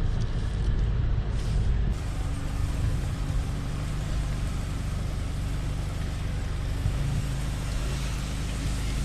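Motor vehicle driving: a steady low rumble of engine and road noise.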